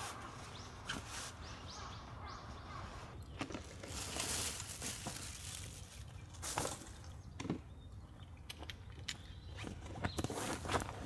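Outdoor woodland sounds: a few short bird chirps in the first few seconds, then rustling and scattered clicks of handling or movement on dry ground, with a louder rustle about four seconds in.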